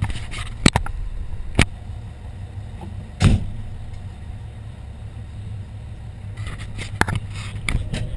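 Fire engine idling with a steady low rumble, with a few sharp knocks and clicks and one heavier thump about three seconds in.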